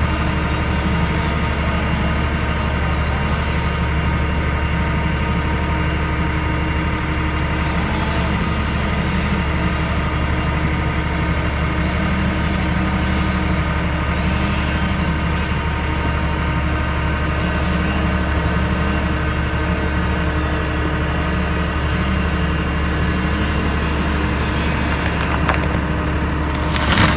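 Engine running steadily at an even speed, with a strong low hum.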